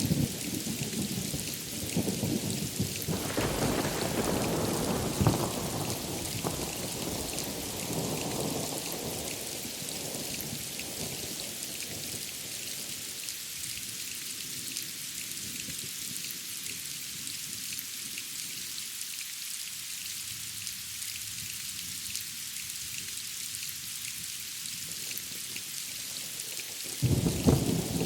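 Thunderstorm: steady rain hissing throughout, with thunder rumbling through the first third and fading away. A fresh, louder crack of thunder breaks in just before the end.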